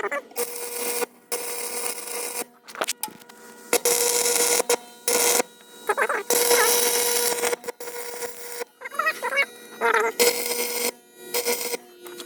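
Arc welder running in short bursts, each a harsh crackling hiss with a steady buzz beneath it, starting and stopping about ten times: tack-welding the steel engine-mount bracket of a skid steer.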